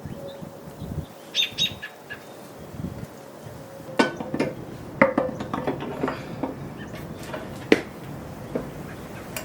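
Sharp metal knocks and clunks, three of them loudest, with smaller clicks between, as a manual transmission is shoved and wiggled against the back of an engine and does not slide into place.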